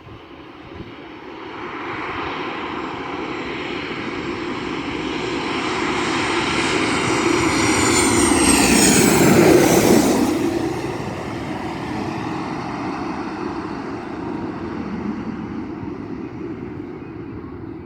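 Aeroplane on landing approach flying low overhead: the engine noise swells to its loudest about halfway through, drops in pitch as it passes, and then fades away.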